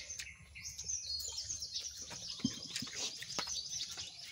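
Crisp crunching and chewing of raw jicama (singkamas), a string of short sharp crunches, with birds chirping in the background from about a second in.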